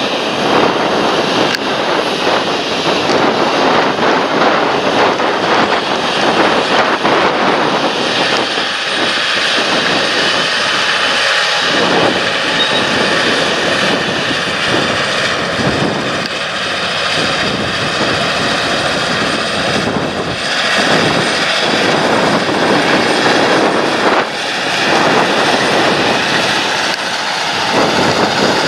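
Large John Deere tractor's engine running steadily under load at field work, with a faint steady whine above the engine noise.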